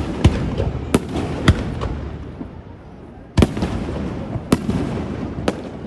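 Aerial fireworks shells bursting: six sharp booms at uneven intervals, with a low rumble between them.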